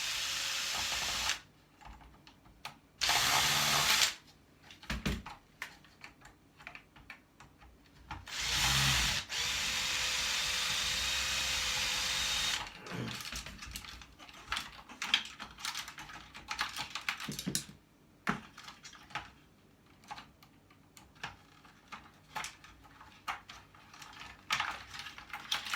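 Power drill running in three short bursts with a steady motor whine, the last and longest lasting about four seconds, used to back out screws while taking apart e-waste for scrap. From about halfway on, small clicks and rattles of parts being handled.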